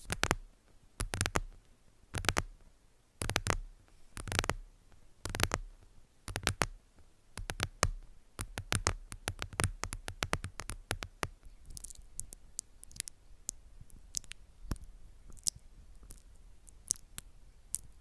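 A series of close-up ASMR taps and clicks. They come about once a second at first, bunch into a quick flurry in the middle, then thin out to sparser, fainter clicks.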